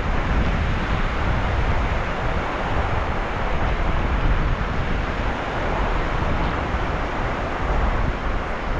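Sea waves washing onto the shore: a steady rush of surf with a deep low rumble, swelling and easing gently.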